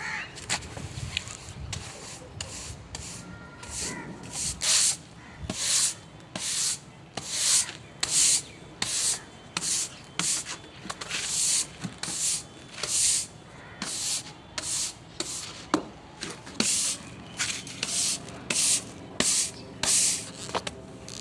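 Scrubbing strokes, a brush or scourer rubbed back and forth over a surface in a steady rhythm of about one to one and a half strokes a second, starting a few seconds in.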